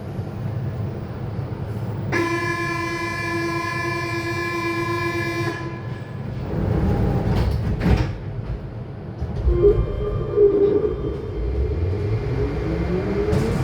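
VAL208 automated metro train stopped at a station: a steady warning tone sounds for about three and a half seconds, a thud follows as the doors shut, and near the end the traction motors start with a whine rising in pitch as the train pulls away.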